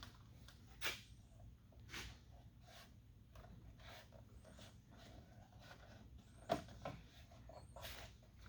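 Scattered light clicks and knocks from plastic door trim and clips being handled and pressed onto a truck door, about six in all, the sharpest about six and a half seconds in, over a faint steady hum.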